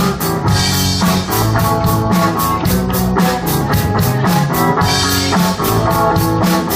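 Live rock band playing an instrumental passage: electric guitars and bass over a driving drum kit beat, with cymbal hits about four to five times a second.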